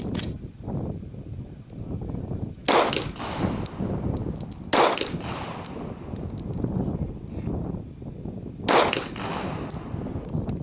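Glock 22 Gen 4 pistol (.40 S&W) firing single shots at an uneven pace: three loud shots a couple of seconds apart, a fainter one near the start, each with a short echo. Light, high metallic pings come between the shots.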